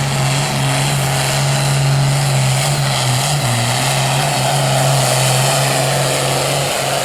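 Pulling vehicle's engine held at full throttle under load during a truck and tractor pull, a loud steady drone that holds one pitch throughout.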